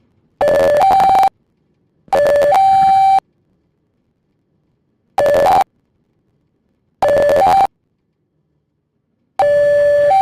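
Two-tone train horn sounding in a series of blasts, each starting on a lower note and stepping up to a higher one; five blasts, the third and fourth shorter than the rest, with silence between them.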